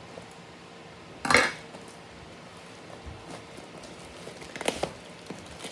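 Handling noises from a cardboard package being moved: a loud scraping rustle about a second in, then a short cluster of clicks and knocks near the end.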